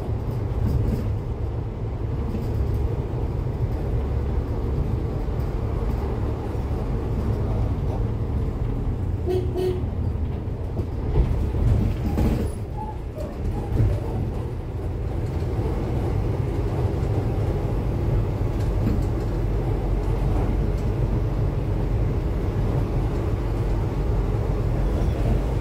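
Cummins ISF3.8 four-cylinder diesel of a Daewoo Lestar bus running, heard on board as a steady low rumble. A few brief clicks or knocks come through around the middle.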